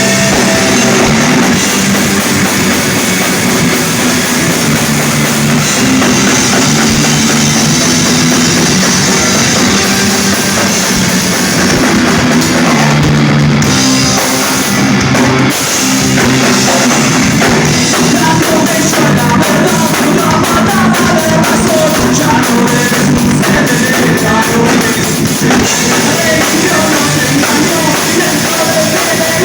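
Rock band playing live at full volume, with the drum kit driving a steady beat under the instruments.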